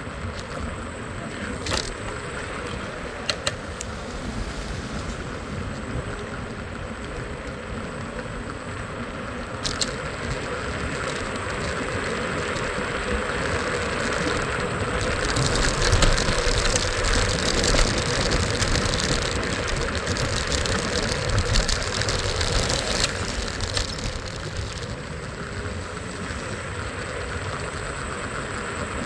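Road traffic heard from a moving scooter: a steady mix of engines and tyre noise that swells louder with a hiss for several seconds in the middle, with a few sharp clicks near the start.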